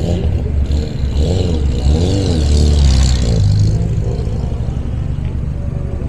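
A car engine running nearby, its pitch rising and falling a few times, loudest about three seconds in, over a steady low rumble.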